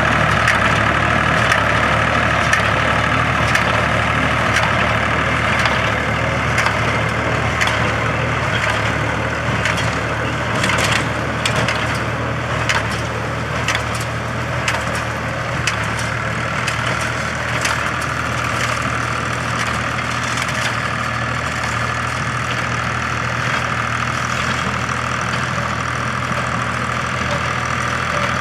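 Case IH 485 tractor's engine running steadily while driving an International 440 small square baler, with repeated sharp cracks and crunching knocks from the baler compressing hay, thickest in the middle stretch.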